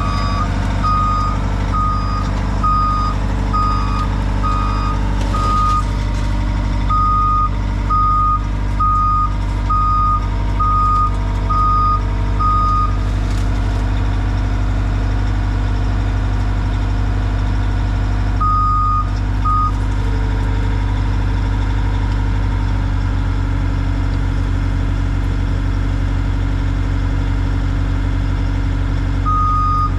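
Skid steer's engine running steadily while its backup alarm beeps about once a second as it reverses. The beeping stops about halfway through, comes back for two beeps, and starts again at the very end.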